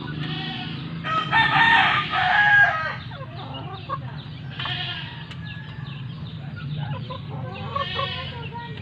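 A gamecock crowing loudly once, a call of about a second and a half starting a second in, followed by shorter, fainter calls a few seconds later.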